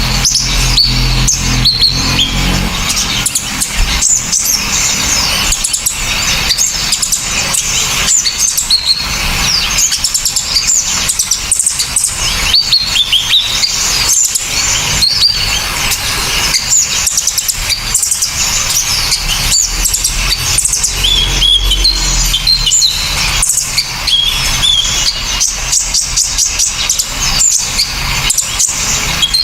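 Several small songbirds singing at once in a bird-training (masteran) recording: a dense, continuous run of sharp, high chirps, trills and rapid ticking notes.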